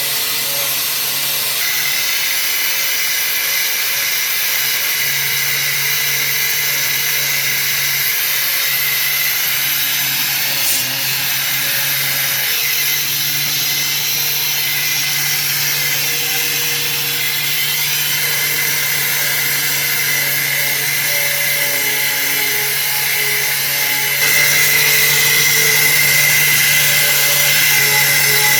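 Handheld electric power tool running steadily on rusty metal, a motor hum under a harsh, high grinding hiss, with a couple of abrupt jumps in level.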